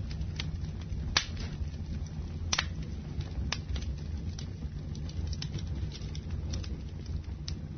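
Wood fire in a fireplace crackling, with sharp pops at irregular intervals, the loudest about a second in, over a steady low rumble.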